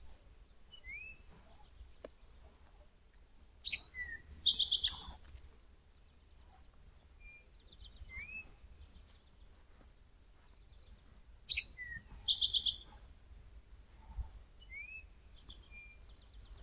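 A songbird singing short phrases of a few rising whistled notes followed by a fast trill, repeated every few seconds, the loudest about four and twelve seconds in.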